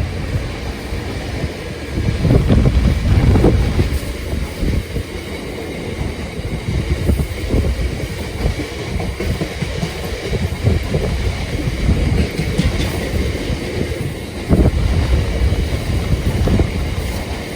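A train passing on the line, its wheels clattering over the rail joints with a heavy rumble; the clatter swells loudest about two seconds in and again near the end.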